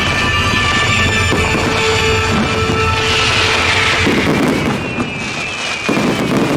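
Fireworks bursting and crackling, with a spell of dense crackling about three seconds in, over loud pop music.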